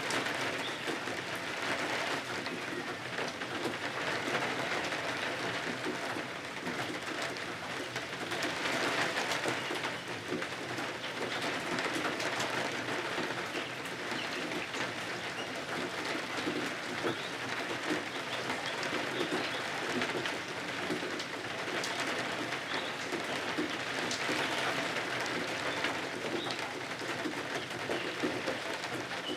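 Steady rain falling, with a fine, constant patter of drops.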